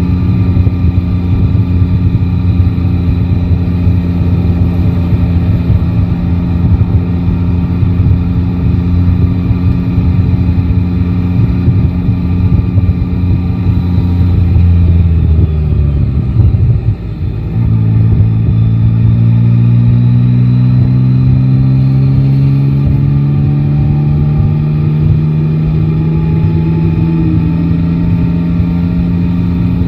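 Yamaha Tracer 9 GT's three-cylinder engine under way. It runs at a steady pitch, falls sharply in pitch about halfway through as the bike slows or shifts, then pulls away with the engine note rising slowly through the rest.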